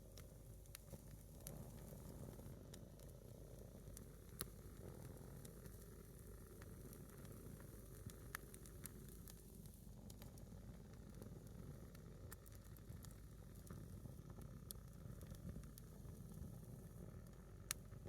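A single firewood log burning in a small campfire, hissing faintly, with scattered sharp pops and crackles, the loudest near the end.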